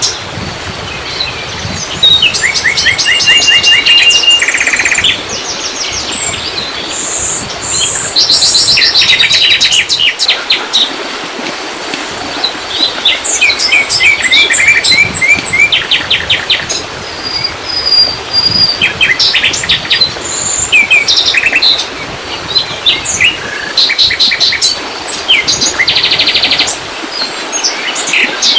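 Several birds singing, with quick runs of repeated chirps and trills, over a steady background hiss.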